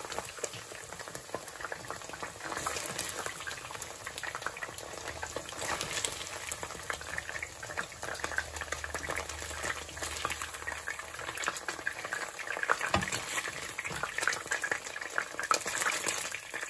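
Thinly sliced steak frying in very hot oil in a pot: a steady crackling sizzle made of many fine pops. About three-quarters of the way through there is a single dull knock.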